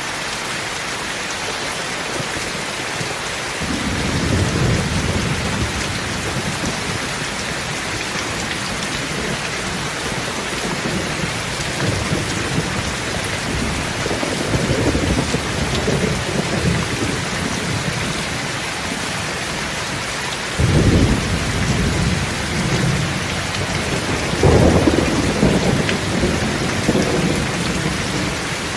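Steady rain with repeated rolls of low thunder rising and fading over it. The two loudest rolls come in the later part and start suddenly.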